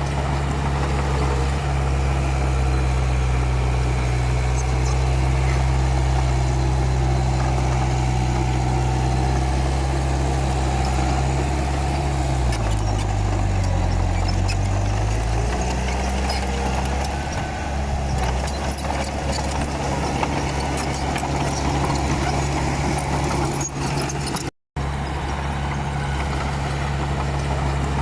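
Komatsu D31P bulldozer's diesel engine running steadily. About halfway through, its pitch drops for a few seconds and then recovers. The sound cuts out for an instant near the end.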